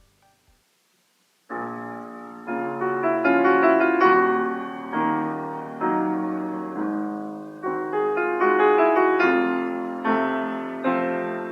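Piano playing a slow passage of struck chords, each ringing and fading before the next, starting about a second and a half in after near silence.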